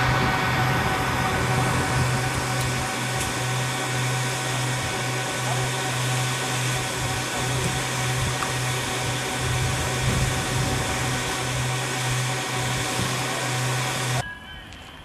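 Airliner cabin noise in flight: a steady rushing roar with a constant low hum. It cuts off abruptly near the end, leaving something much quieter.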